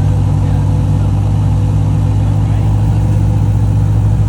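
Supercar engine running at a steady fast idle after a cold start, an even low drone that holds its pitch.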